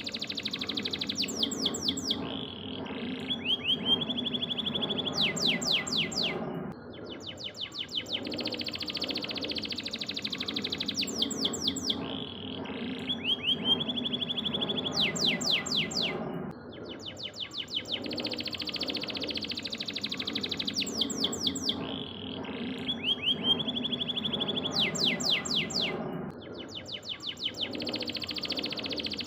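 Canary singing: rapid trills and whistled notes over a low steady background noise. The same song phrase recurs about every ten seconds, as in a looped recording.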